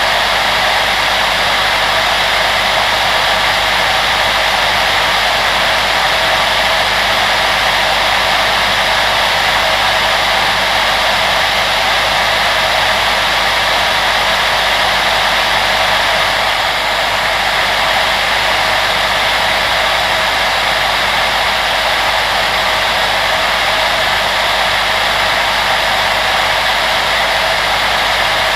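Steady airy rush of a fan-driven household appliance, such as a hair dryer or range hood, running continuously, with a faint steady hum underneath.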